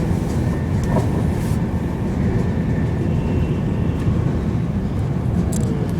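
Steady low rumble of a moving passenger train heard from inside the carriage, with a faint high whine running over it.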